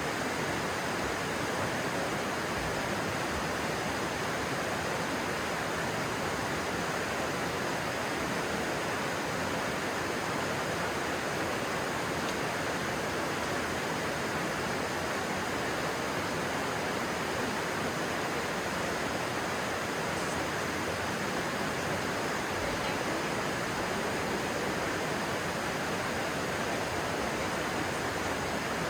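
Stream water rushing steadily over rocks, an even, unbroken hiss of flowing water.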